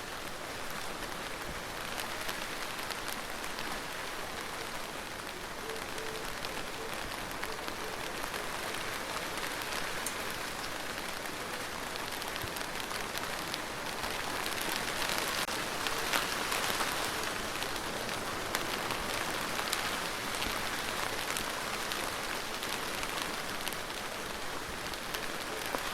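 Steady rain falling, a dense patter of drops on a surface, swelling heavier for several seconds about halfway through.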